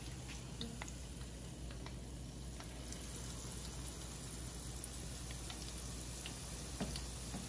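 Tempura-battered zucchini and ground pork fritters deep-frying in hot oil: a steady sizzle with scattered crackling pops.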